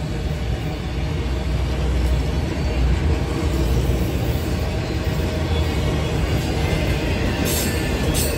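Norfolk Southern mixed manifest freight train rolling past, a steady rumble of freight cars on the rails.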